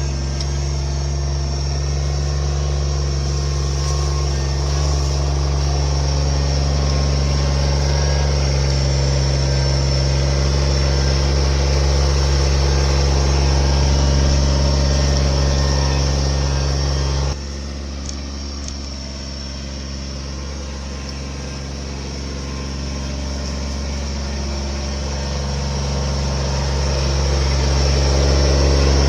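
A machine engine running steadily with a low, even drone. About two-thirds of the way through, its sound drops suddenly, then builds back up gradually.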